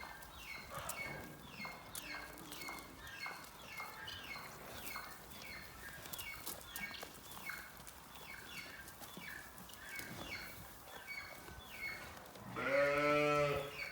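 An Alpine goat bleats once, loud and about a second long, near the end. Small birds chirp over and over throughout.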